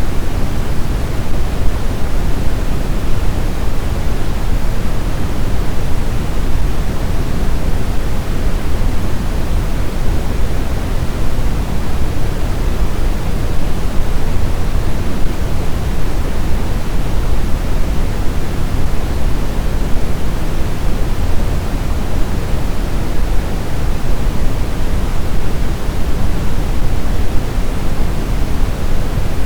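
Snowstorm wind blowing steadily: an even rush of noise, heaviest in the low end, with no gusts, breaks or separate events.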